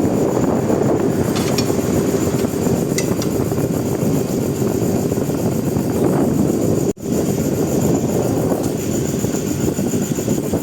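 Loud, steady mechanical running noise, a low drone with no clear rhythm, broken by a sudden gap about seven seconds in.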